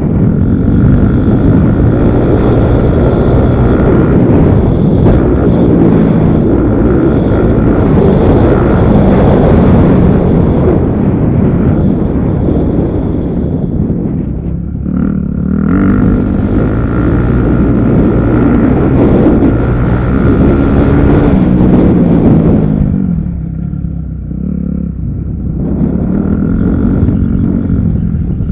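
Motocross motorcycle engines revving up and down repeatedly as bikes ride the track, over a heavy low rumble.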